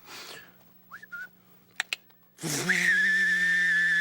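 A few short chirps and clicks, then a long, steady whistle tone beginning a little past halfway through, with a quick upward scoop at its start.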